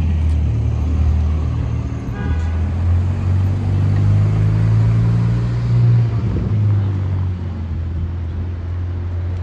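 Lamborghini engine running with a deep, steady rumble, its pitch stepping up about two seconds in and dropping back a few seconds later.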